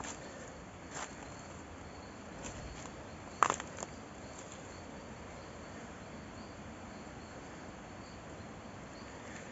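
Insects, crickets among them, chirping steadily as a high, faint trill in woodland. A short cluster of sharp clicks stands out about three and a half seconds in, with a few fainter clicks elsewhere.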